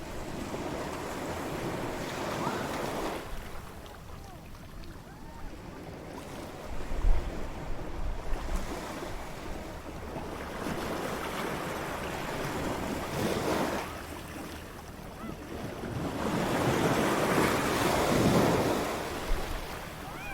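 Ocean waves breaking and washing up a beach, swelling and ebbing every few seconds, with wind on the microphone.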